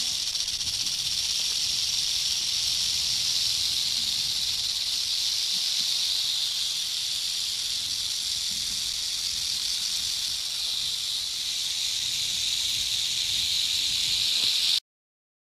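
Rattlesnake shaking its tail rattle: a steady, unbroken high buzz that cuts off suddenly near the end.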